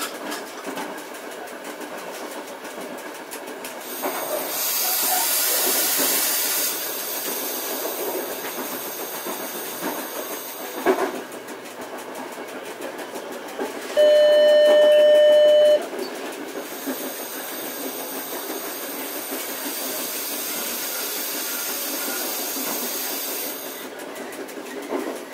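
Running noise heard from the cab of a Piano Ribassato double-deck driving trailer: steady rail and running noise with two long stretches of hissing. About halfway through a loud steady beep sounds for nearly two seconds.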